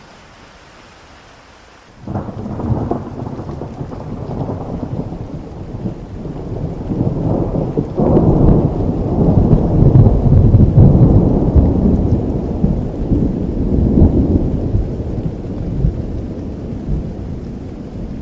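Rolling thunder over steady rain. Light rain hiss at first, then the thunder breaks in suddenly about two seconds in, swells to a long, loud rumble through the middle and slowly dies away near the end.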